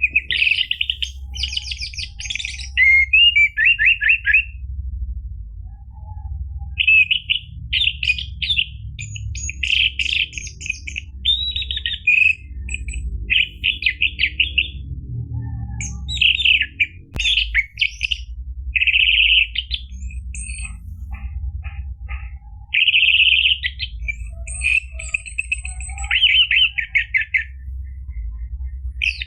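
Orange-headed thrush singing: a run of rapid, varied whistled and trilled phrases broken by short pauses, over a steady low hum.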